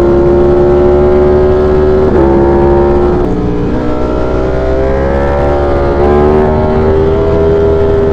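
V4 sport motorcycle engine pulling hard under acceleration, its pitch climbing steadily. It dips briefly about two seconds in, then drops about three seconds in at a gear change before climbing again.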